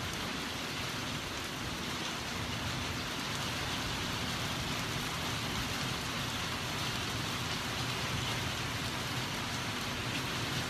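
Steady rain falling in a thunderstorm: an even hiss that does not let up, with no thunder.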